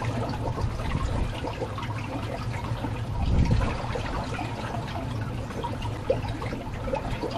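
River water flowing steadily around the angler, with a low rumble and a brief louder swell about three and a half seconds in.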